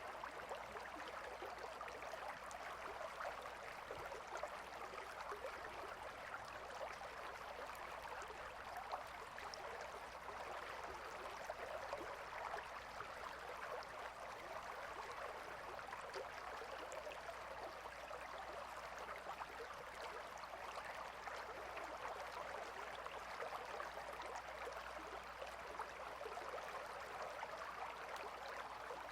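Gentle river flowing, a steady even rush of water without pauses.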